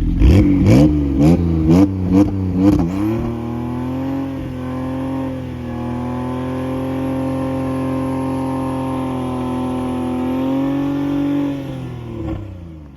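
2019 Porsche 911 Carrera T's twin-turbo flat-six revving in about six quick blips, then held steady at high revs for about eight seconds before the revs drop away near the end.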